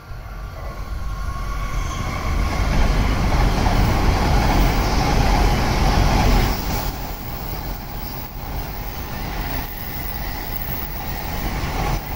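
E7 series Shinkansen passing at high speed: a rushing noise of wheels on rail and air that builds over the first few seconds and is loudest as the front of the train goes by, then carries on more evenly as the rest of the cars stream past, with faint clicks at the rail joints.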